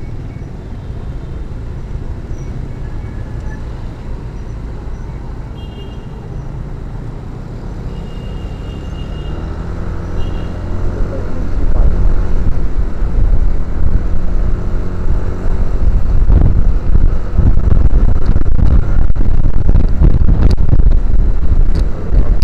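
Motorcycle riding in traffic: the engine runs under steady road noise, then rises in pitch and gets much louder about eleven seconds in as the bike picks up speed, with heavy low rumble on the camera microphone.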